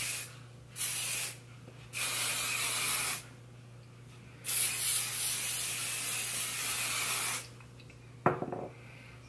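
Drybar Sparkling Soda shine mist spraying onto hair in several long hissing bursts, the longest about three seconds, with short pauses between. A single sharp click near the end.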